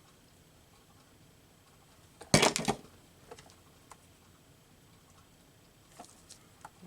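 Handling sounds from collage work at a table: a short burst of sharp clicks and rustling a little over two seconds in, then a few faint ticks.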